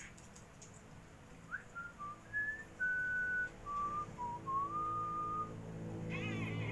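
Whistling: a string of about ten clear, pure notes, some short and sliding, some held for up to half a second, making a wandering tune over about four seconds. Near the end comes a short wavering call.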